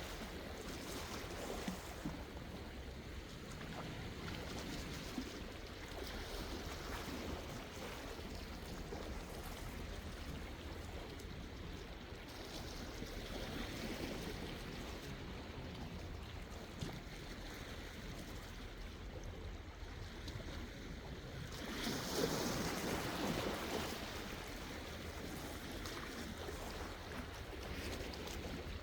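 Sea waves washing in and drawing back in slow swells, with a stronger wave breaking about three-quarters of the way through, over a steady low rumble.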